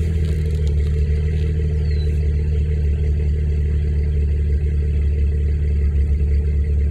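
2001 Jeep Cherokee XJ's 4.0-litre straight-six idling steadily at just under 1,000 rpm. It is heard from inside the cab with the windows down. Its exhaust note comes through a 2.5-inch side-exit pipe and a stainless Nexus muffler.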